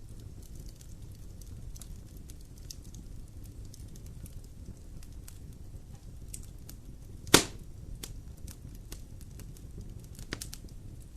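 Fire burning in a fireplace: a low steady rumble with constant small crackles, and one loud sharp pop a little past seven seconds in, followed by a smaller pop about three seconds later.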